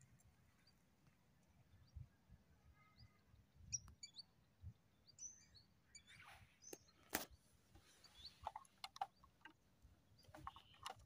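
Faint, short bird chirps and tweets. From about halfway through come rustling and crunching in dry leaves and a few sharp clicks.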